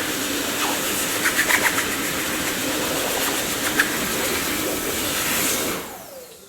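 Dyson vacuum cleaner running with a steady rushing whine and a few short clicks, then switched off near the end, its motor's whine falling in pitch as it spins down.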